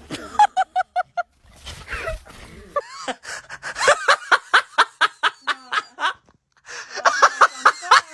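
Laughter: bouts of quick, repeated ha-ha pulses, the longest run of about a dozen in the middle.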